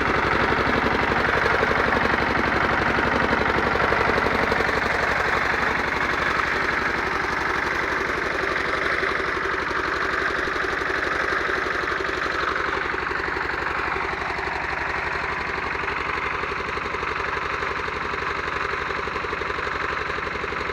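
Pasquali two-wheel tractor's Lombardini air-cooled diesel engine running steadily with a rapid, even firing beat, easing off slightly about two-thirds of the way through.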